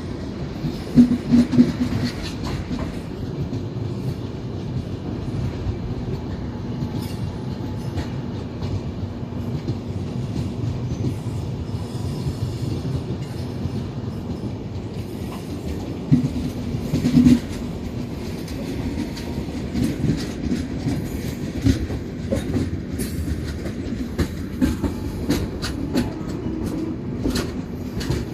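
LHB passenger coach wheels running on the rails: a steady rumble with clickety-clack over the rail joints, and two louder spells of clatter, about a second in and again around the middle.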